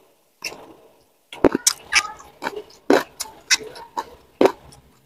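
Close-up chewing of raw leunca berries and other raw vegetables: crisp crunches and pops, about two or three a second from about a second and a half in.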